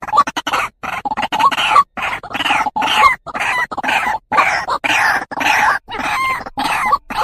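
White-breasted waterhen (ruwak-ruwak) calling: a loud, continuous run of harsh, clucking notes, about two a second. It is the female's call to males.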